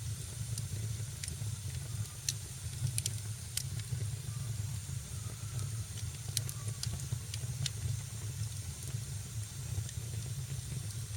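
Wood fire burning in a fireplace: irregular sharp crackles and pops over a steady low rumble and a faint hiss.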